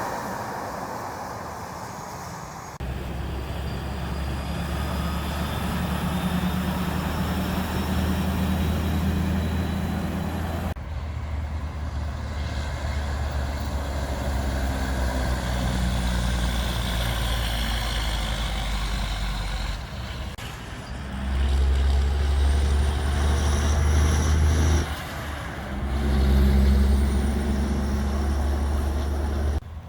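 Diesel engines of heavy trucks running as they drive by, one truck after another. The sound changes abruptly several times and is loudest in the second half.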